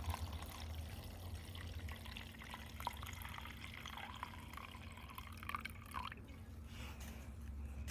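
Liquid being poured into a paint mixing cup, a faint trickling and dripping over a low steady hum.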